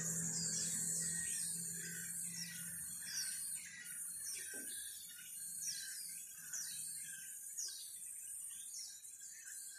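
Small birds chirping: a run of short, high calls, each falling in pitch, about one or two a second, over a steady high insect-like hiss.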